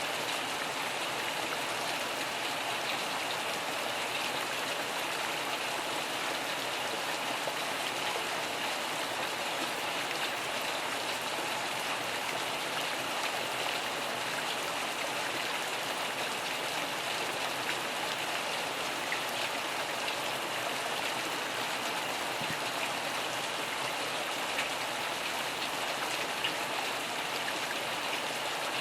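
Steady rain falling in an even hiss, with a few sharper drop ticks.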